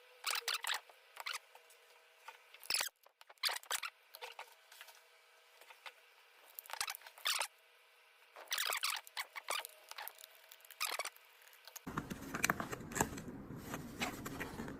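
Small metal clicks, taps and scrapes in scattered bursts as a metal pocket lighter is handled and prised open by hand; a steady low room noise comes in near the end.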